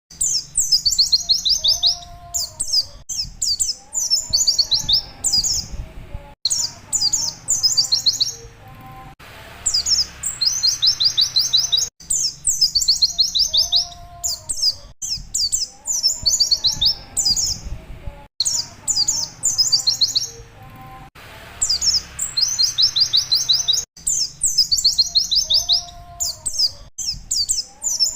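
Pleci (white-eye) singing in rapid bursts of high, fast 'witwitwit' notes, each note sliding downward, with short gaps between the bursts.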